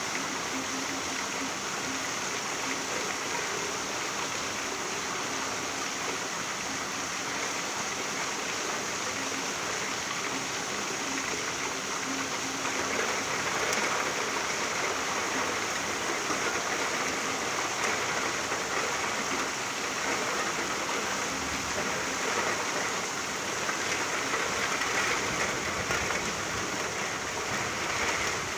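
Steady rain falling, an even hiss of water that grows slightly louder about halfway through. A faint low hum sits under it for the first dozen seconds.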